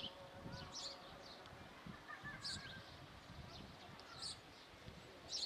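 Small birds chirping outdoors: short, high calls every second or two, faint, over a low steady rural background.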